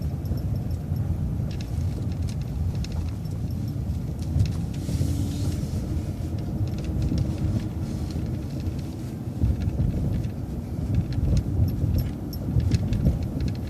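City transit bus driving slowly, heard from inside: a steady low rumble of engine and road with scattered rattles and clicks from the cabin.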